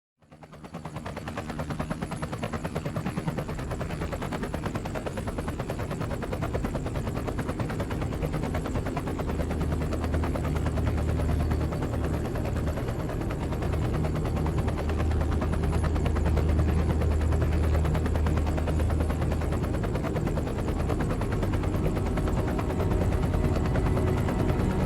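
Helicopter rotor chopping in fast, even beats over a low engine hum. It fades in over the first couple of seconds and grows gradually louder, with the low hum strongest in the second half.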